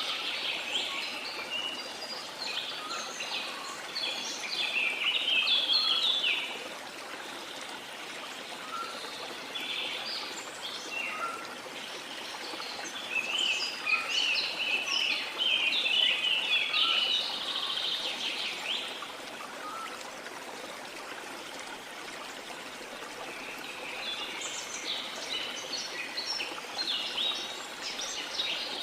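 Steady rush of a waterfall, with tropical rainforest birds singing in bouts of quick, high chirps: one for the first six seconds, another from about ten to nineteen seconds, and a third starting near the end.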